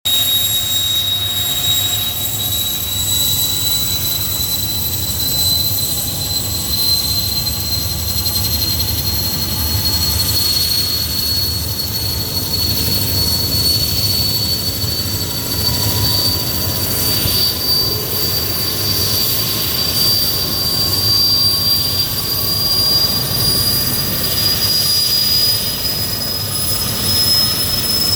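Sikorsky S-64 Skycrane's twin turboshaft engines running, a loud high turbine whine that rises slowly in pitch over a steady low rumble.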